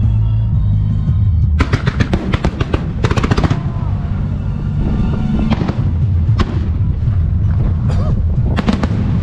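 Fireworks display set to music: shells bursting in a continuous low booming, with a rapid volley of sharp reports between about one and a half and three and a half seconds in, then single sharp cracks every second or so, over loud music.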